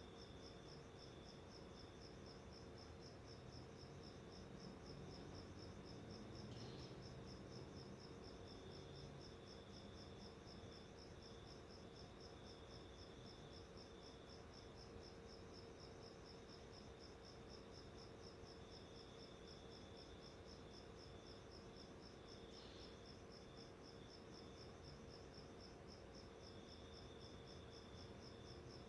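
Faint, steady, high-pitched insect trill, rapidly pulsing like a cricket's, over a low hum. Two brief faint chirps come through, one about seven seconds in and one near twenty-three seconds.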